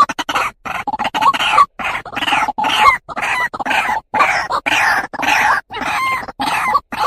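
White-breasted waterhen (truwok) calls as a lure recording: a rapid run of short, harsh calls, about two to three a second, broken by abrupt silent gaps.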